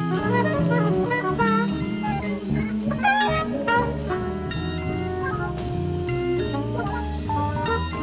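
Jazz instrumental music: horns playing melody lines over bass and drums.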